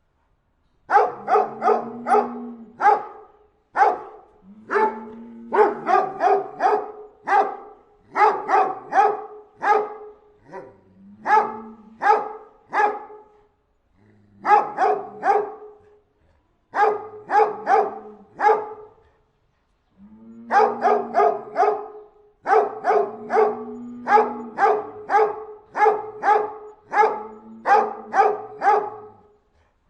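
A dog barking in repeated runs of three to six sharp barks with short pauses between the runs, starting about a second in.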